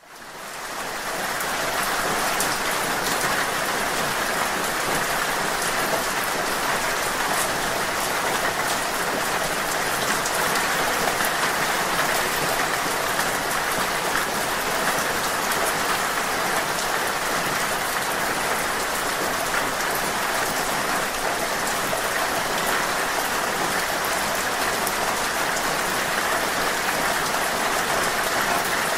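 Steady rain falling, a dense even hiss scattered with fine drop ticks, fading in over the first second or so.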